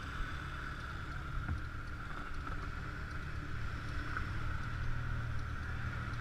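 Motor scooter running steadily while riding, a continuous drone with no change in pitch.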